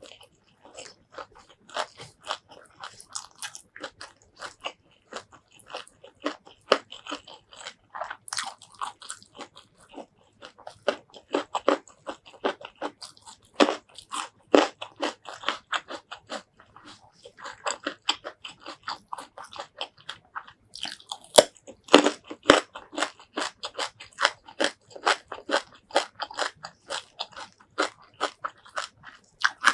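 Close-miked chewing and crunching of a mouthful of spicy shrimp curry with rice and crisp raw vegetables: a steady run of wet, crackling bites and chews, with sharper crunches about two-thirds of the way through.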